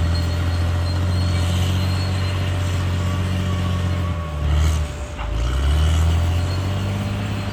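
Diesel engine of a Caterpillar D6R XL bulldozer running steadily under load; about four and a half seconds in, the engine note drops and then climbs back up over about a second.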